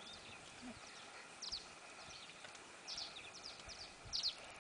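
Birds chirping: short, high chirps scattered through, the loudest a cluster about four seconds in, over a faint steady outdoor hiss.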